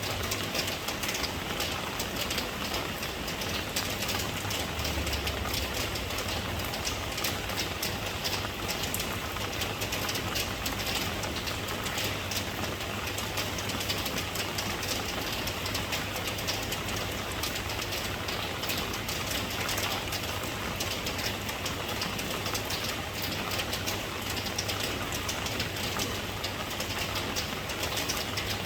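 Steady rain: an even hiss with many small drop ticks and a low steady hum underneath.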